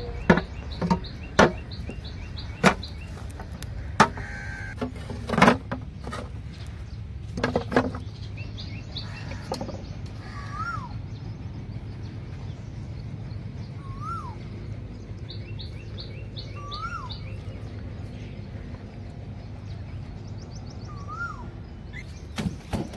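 Birds chirping, with one bird repeating a short rising-and-falling whistled call every three or four seconds in the second half. Several sharp knocks sound in the first eight seconds.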